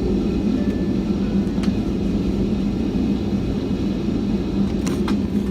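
Steady cabin hum of a Boeing 757-200 with its Rolls-Royce RB211 engines running at idle, heard from inside the cabin, with a held low tone. A couple of faint clicks come near the end.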